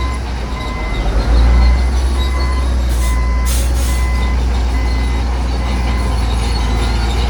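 Heavy earthmoving machinery's engine rumbling steadily, with a backup alarm beeping in a repeating pattern and two short air hisses about three seconds in.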